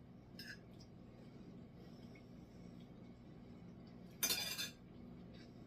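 Fork and knife against a dinner plate while eating: a light tick, then one short, louder scrape about four seconds in, over a faint steady low hum.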